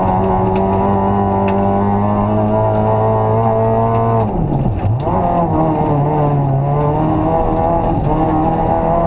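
Rally car engine heard from inside the cabin, running steadily at speed; about halfway through, the revs drop sharply for a moment and then climb back.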